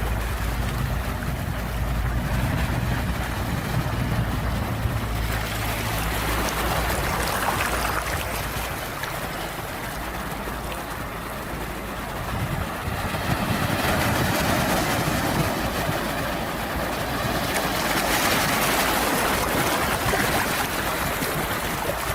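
Sea waves washing in, the surf swelling twice, with a low rumble in the first few seconds.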